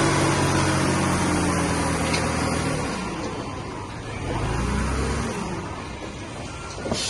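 Heavy diesel engine running steadily, its tone dropping away about three seconds in, followed by a quieter, lower engine swell.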